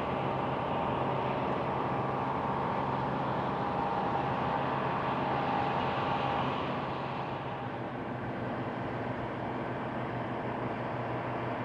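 Tugboat engines running with a steady low drone, a little quieter from about seven seconds in.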